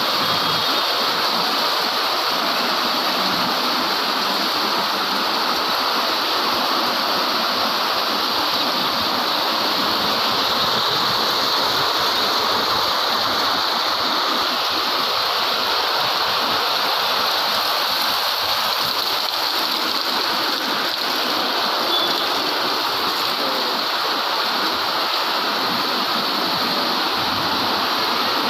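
Heavy rain pouring down steadily, a dense, even rushing hiss.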